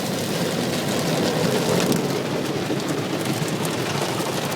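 Water from a Ryko SoftGloss MAXX automatic car wash spraying and drumming steadily on the car's body and windows, heard from inside the cabin like heavy rain.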